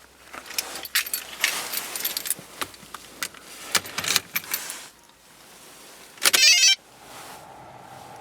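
Car keys jangling and clicking for about five seconds as the key goes into the ignition, then the 1999 Toyota Celica's four-cylinder engine cranks for about half a second, catches at once and settles into a steady idle.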